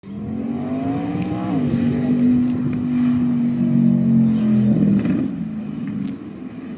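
Devel Sixteen hypercar's engine accelerating on a run. Its note rises, drops sharply about a second and a half in as it shifts up, holds a steady high pitch, then falls away about five seconds in as it quietens.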